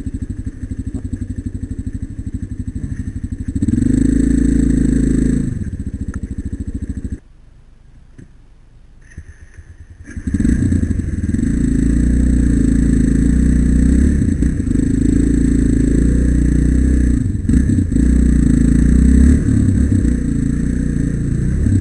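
Single-cylinder four-stroke trail motorcycle engine idling with an even pulsing beat, revved up briefly about four seconds in. A little after seven seconds the engine sound cuts off for about three seconds, then returns suddenly and keeps running at higher, varying revs.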